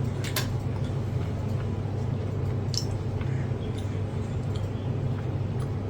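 A person chewing food with wet mouth sounds, with a few small clicks, over a steady low hum.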